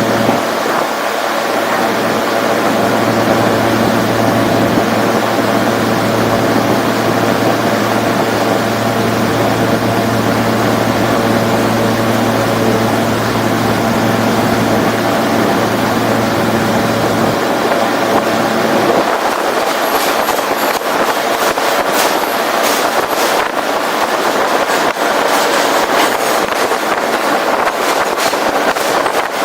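New York subway F train running, heard from its roof: a steady rushing rumble with a low hum that stops about two-thirds of the way through, after which sharp clicks and rattles from the wheels and track take over.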